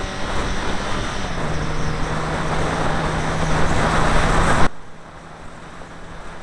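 Rally car engine running hard under load, heard from inside the cabin with heavy road and tyre noise. The engine note steps down slightly early on. The noise builds until the sound drops abruptly to a much quieter engine note about three-quarters of the way through.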